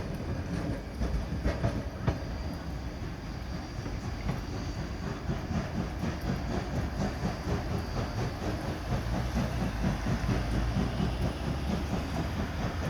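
Passenger train rolling along the track with a steady low rumble and a rhythmic clickety-clack of wheels passing over rail joints.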